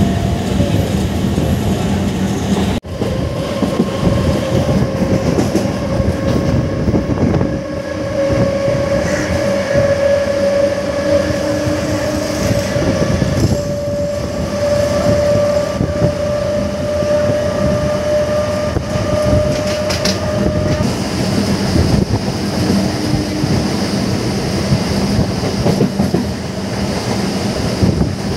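MEMU electric multiple-unit train running at speed, heard from the open coach doorway: wheels rolling and clattering over the rails under heavy wind rush. A steady high whine sounds over it from a few seconds in until about two-thirds of the way through.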